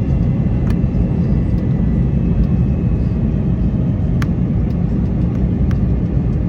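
Airbus A321neo cabin noise heard from a passenger seat: a steady, loud low rumble of the engines and airflow, with a few faint clicks.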